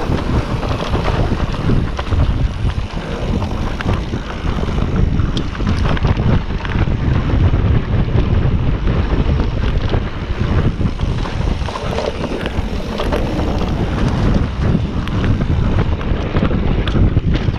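Wind rushing over the microphone of a camera on a mountain bike riding a dirt trail, with steady low tyre rumble and scattered small clicks and rattles.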